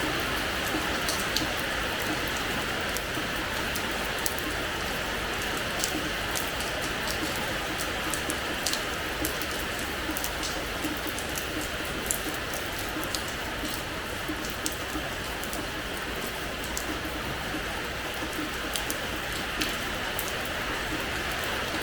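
Steady rain falling on a hard terrace floor: a constant hiss of rain with scattered sharp drop splashes.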